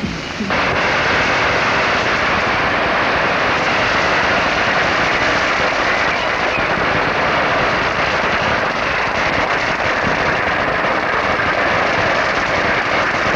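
Fireworks going off in a continuous loud hissing rush. It starts abruptly about half a second in and holds steady, with a few faint crackles in it.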